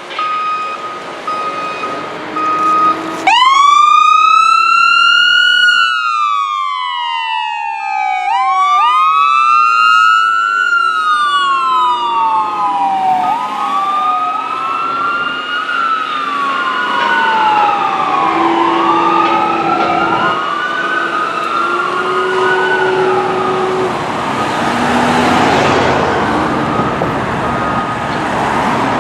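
Fire engine siren wailing. It starts about three seconds in with a long rising wail, then keeps sweeping slowly up and down, and about eight seconds in a second wailing tone overlaps it. Before the wail begins, a steady horn-like tone sounds on and off, and a rushing noise swells near the end.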